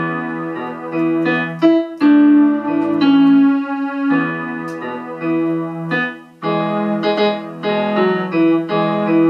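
Electronic keyboard on a piano pad sound playing held chords and melody notes, with one short break about six and a half seconds in.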